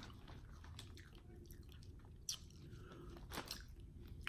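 A person chewing seafood close to the microphone: faint wet mouth sounds with a few sharp clicks, the loudest about three and a half seconds in.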